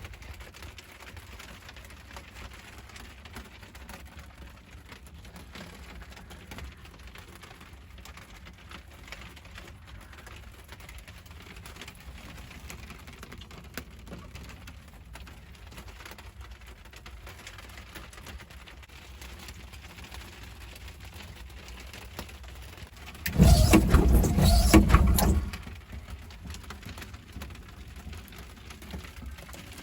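Steady rain falling, with a low rumble underneath. A loud, noisy burst lasting about two seconds comes a bit past three quarters of the way through.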